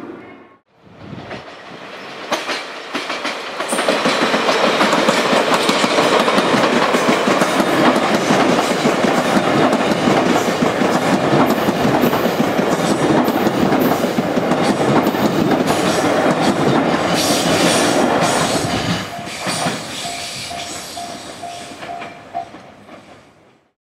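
Train passing on the track, its wheels clicking over the rail joints; it builds up over the first few seconds, stays loud for most of the stretch, then fades away near the end.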